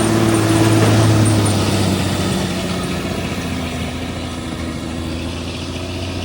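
Stock semi truck's diesel engine running at a steady pitch, loudest about a second in, then slowly fading.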